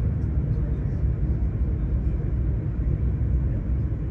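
High-speed train running along the track, a steady low rumble heard inside the passenger car.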